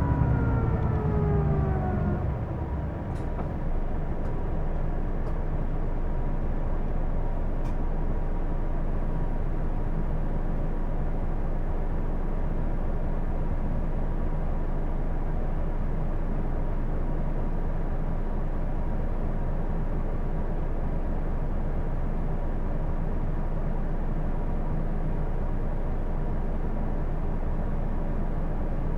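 Hino Blue Ribbon II city bus heard from inside the cabin: a whine falls in pitch over the first two seconds as the bus slows, then the diesel engine runs on in a steady rumble with a thin constant high tone over it.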